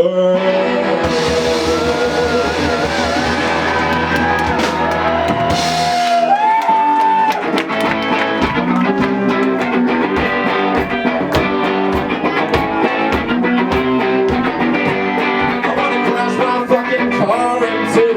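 Rock band playing live with electric guitar, bass and drums. For the first several seconds held notes bend and waver over a cymbal wash. About eight seconds in the full band settles into a steady drum beat with guitar and bass.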